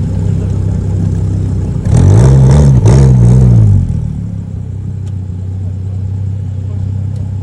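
Car engine idling, then revved twice in quick succession about two seconds in, the pitch climbing and falling each time before it settles back to idle.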